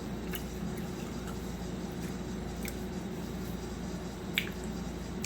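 Close-up eating sounds: a few soft wet mouth clicks and smacks while chewing a fried potato ball with a meat filling, with one sharper click about four seconds in, over a steady low room hum.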